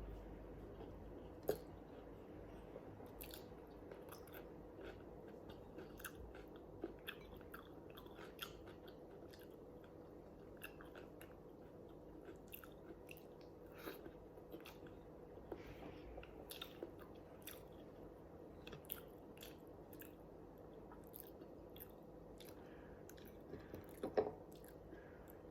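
A person chewing food close to the microphone, with many small wet clicks and mouth smacks over a faint steady hum. One louder click comes about a second and a half in, and a short cluster of louder ones near the end.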